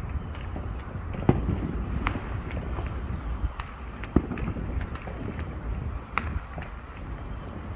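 Fireworks popping in the distance: scattered, irregular sharp cracks and pops of small fireworks over a steady low rumble.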